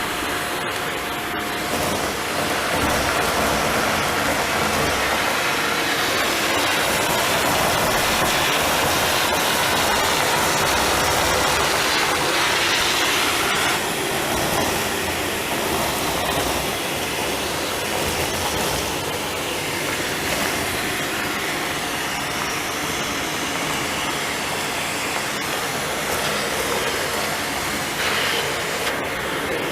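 Philips vacuum cleaner running steadily, its suction loud for the first half and easing a little after about fourteen seconds, as it picks up dust and rubber bands.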